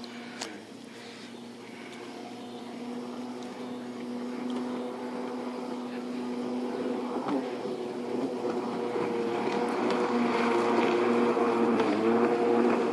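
Kawasaki JS300 stand-up jet ski with a swapped-in 650 two-stroke twin engine and custom exhaust pipe, running at speed on the water. Its steady engine note grows louder as it comes nearer, dipping briefly in pitch about halfway through and again near the end.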